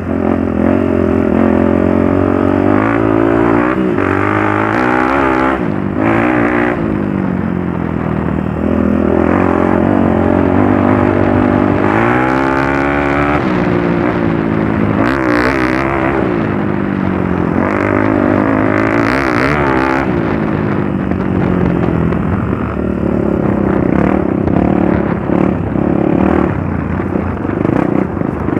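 Trail motorcycle engine running with the throttle opening and closing, its pitch rising and falling over and over.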